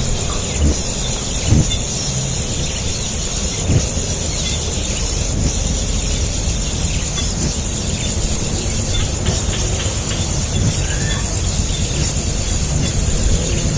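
Hungry nestlings' shrill begging calls, kept up without a break, over a steady low rumble.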